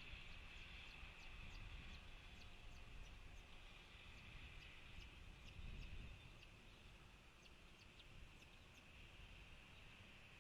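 Faint, thin, very high bird chirps, repeated about two to three times a second, over a steady high hum.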